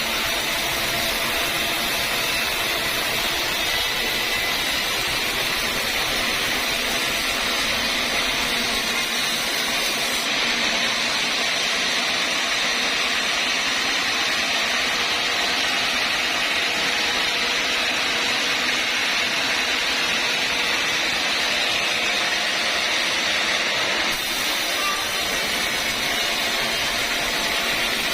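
Sawmill machinery running steadily with a continuous loud mechanical noise. The hiss at the very top of the sound drops back for a stretch in the middle, then returns.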